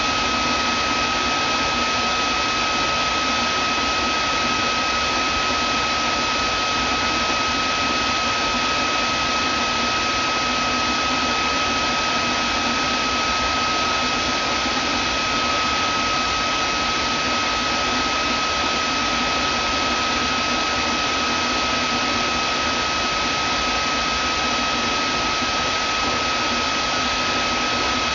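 Vacuum cleaner running steadily: a constant rushing noise with a steady high whine.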